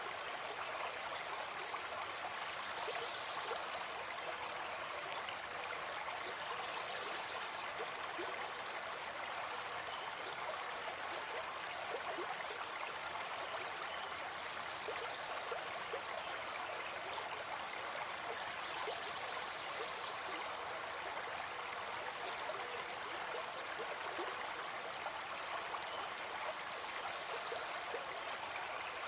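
Gentle forest stream flowing over rocks, a steady rush of running water with small gurgles.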